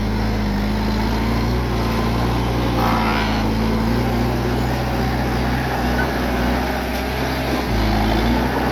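Bulldozer's diesel engine running steadily under work, its pitch rising and dipping slightly.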